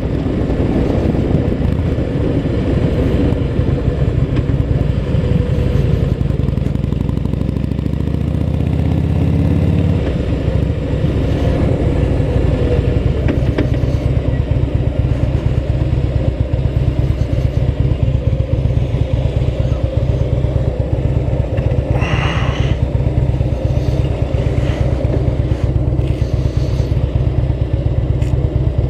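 Motorcycle engine running while riding. Its pitch climbs for a few seconds and then drops sharply about ten seconds in, and it runs steadily after that. A brief hiss comes about two-thirds of the way through.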